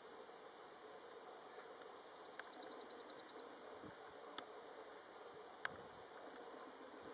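Yellowhammer singing one phrase, its 'little bit of bread and no cheese' song: a fast run of thin repeated notes that grows louder, then a short higher flourish and one long drawn-out final note.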